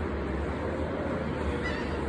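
Steady ocean surf washing on a beach, an even hiss of waves with a low rumble underneath.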